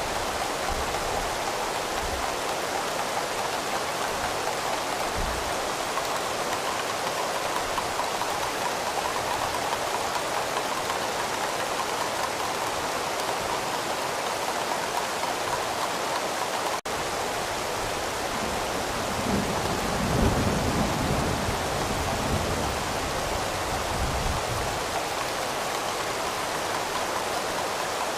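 Steady rain falling, an even hiss, with a low rumble of distant thunder about two-thirds of the way through. The sound cuts out for an instant a little past the middle.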